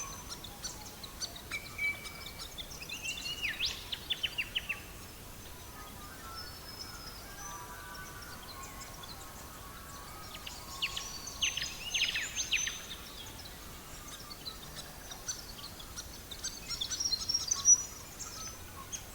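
Songbirds singing in short bursts over a faint steady hiss: a held whistle, then a quick run of falling notes, near the start; a denser flurry of chirps and falling notes in the middle; more chirping near the end.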